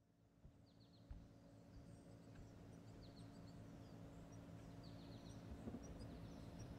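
Faint outdoor ambience fading in: small birds giving clusters of short, quick falling chirps over a low steady hum.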